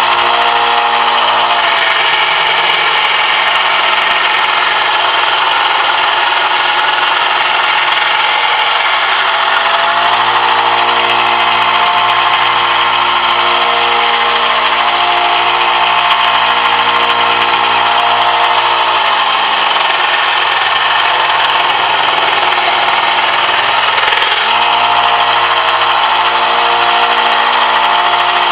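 Electric power tool running steadily as a brass piece is shaped, its tone shifting several times as the work is pressed on and eased off.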